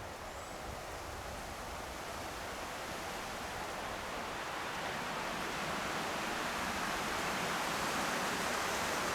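Wind rushing steadily through the forest trees, slowly swelling louder.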